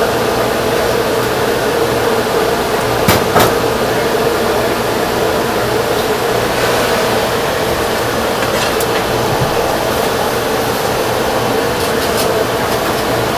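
A steady machine drone, with two sharp clicks about three seconds in and a few fainter clicks near the end.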